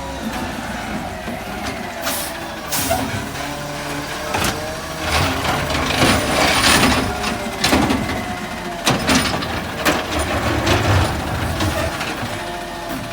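Rear-loader garbage truck running, its engine pitch rising and falling, with several short sharp bursts of hiss or clatter and a louder noisy stretch about halfway through.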